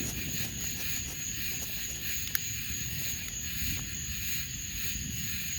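A steady high-pitched insect chorus, with wind rumbling on the microphone and one sharp click about two and a half seconds in.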